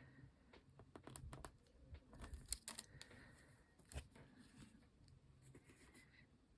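Faint, scattered light clicks and taps of small craft materials being handled on a work table, over a low room hum.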